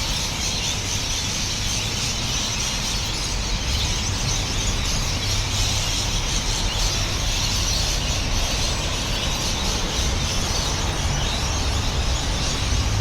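Dusk chorus of many birds calling at once, blending into a steady high chattering wash, over a low rumble.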